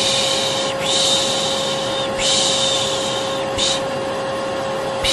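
Vacuum cleaner motor running with a steady hum, overlaid by a person's repeated soothing 'shh' shushes. There are three long shushes in a row, then a brief one, then the vacuum alone for the last second or so.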